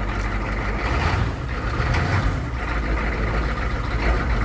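International 6.9-litre IDI V8 diesel running steadily just after a cold start on glow plugs.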